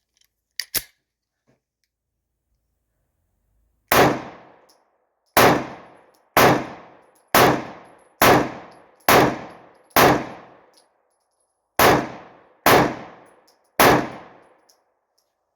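Ten 9mm pistol shots from a Springfield XD Subcompact on a 3D-printed frame, fired one at a time at about one per second with a short pause after the seventh. Each is a sharp crack that dies away within a second.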